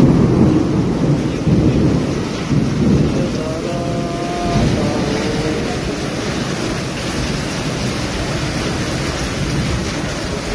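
Heavy rain pouring down in gusting wind: low rumbling surges in the first few seconds, then a steady rush of rain.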